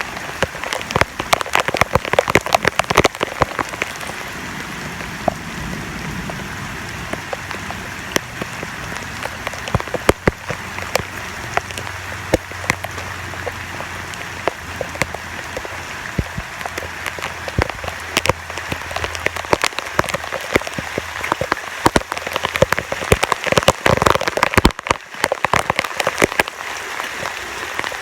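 Heavy, sustained rain: a steady hiss, thick with the sharp spatter of close drops hitting surfaces.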